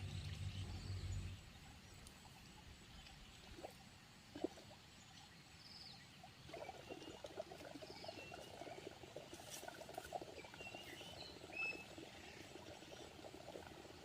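Scattered faint bird chirps over a soft patter of fine clicks that starts about halfway through; a low hum stops about a second in.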